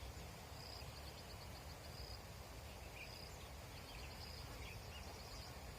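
Faint birds calling in open countryside: short high-pitched trills of rapid chirps, repeating every second or so, with a few brief lower chirps, over a low steady wind rumble.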